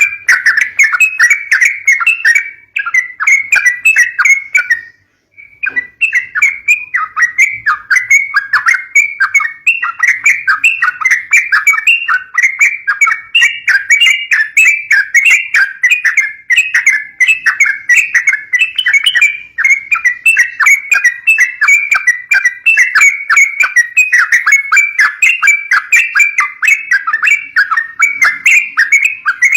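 Yellow-vented bulbul (trucukan) calling in fast, continuous chattering notes, with a short break about five seconds in. It is a lively, fighting-style call of the kind played to lure young bulbuls.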